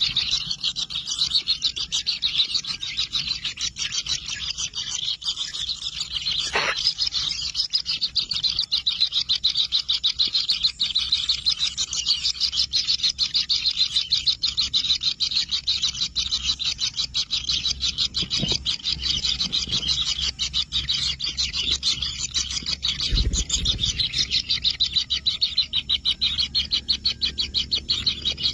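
Kingfisher nestlings in the nest burrow calling nonstop: a continuous, rapidly pulsing high buzz, with a few brief knocks and low thumps.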